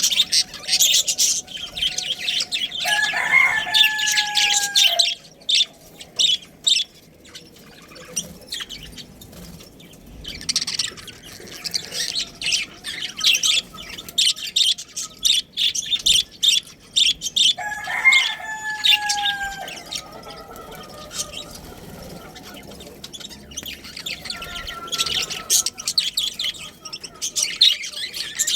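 Budgerigars chattering and chirping in busy bursts with quieter stretches between. Twice, about 3 seconds and 18 seconds in, a longer, lower call stands out that falls slightly in pitch.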